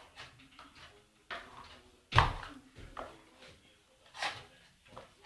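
A handful of irregular knocks and scrapes, each sudden and quickly fading. The sharpest comes about two seconds in, and a longer scraping stroke follows about four seconds in.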